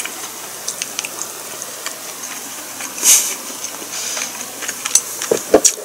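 Mouth sounds of someone eating: small wet clicks of chewing and swallowing, with one short airy hiss about three seconds in.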